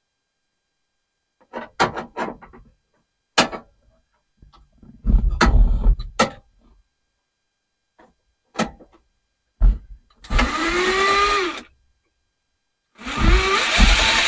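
Power drill driving a self-tapping screw into sheet metal: two runs of the motor near the end, its pitch gliding up and down, after a series of clicks and knocks from handling the parts.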